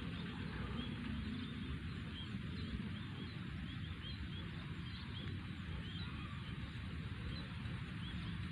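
A flock of small rice-field birds chirping: many short, high calls repeated throughout, over a steady low rumble.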